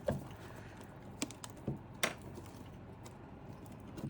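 A few light, sharp clicks and taps of PC power-cable connectors and components being handled and seated, the strongest about two seconds in.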